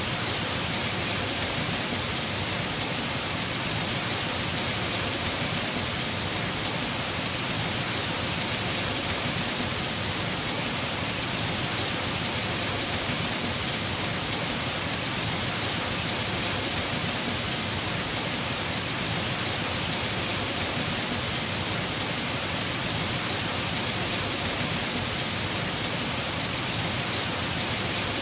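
Heavy rain falling on a house roof: a steady, dense hiss of many drops with fine patter, unchanging throughout.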